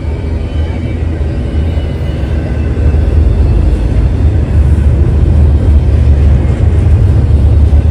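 Loud, steady low rumble of a diesel locomotive running close by, growing louder about three seconds in.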